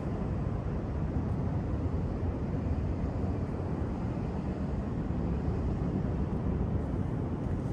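Steady low outdoor rumble of city ambience, with no distinct events in it.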